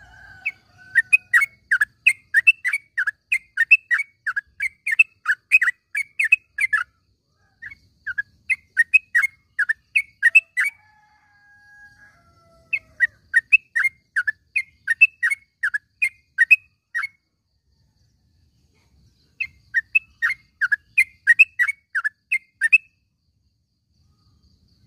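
Yellow-vented bulbul (trucukan) calling in four bouts of quick repeated sharp notes, about three a second, with short pauses between the bouts.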